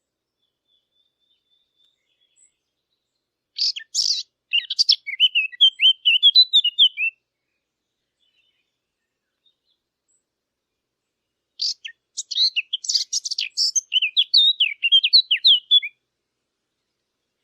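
A Sylvia warbler, the bird sold to hunters as the 'fig bird', singing two song phrases a few seconds apart. Each opens with scratchy notes and runs on into a quick, clear warble.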